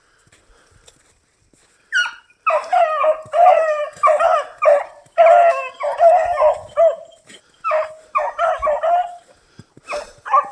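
A dog giving a rapid string of high, pitched yelps and barks, starting about two seconds in, with a short break before a last run near the end.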